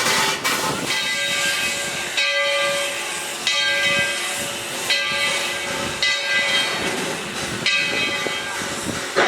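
Steam locomotive No. 12, a narrow-gauge 4-6-0, working: a quick run of exhaust chuffs, then steam hissing with a ringing steam pulse about every second and a quarter.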